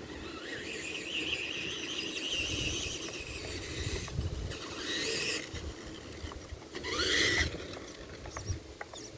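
Tamiya TXT-2 RC monster truck's electric motor and gears whining as it drives. The pitch wavers at first, then rises sharply in two short throttle bursts, about five and seven seconds in.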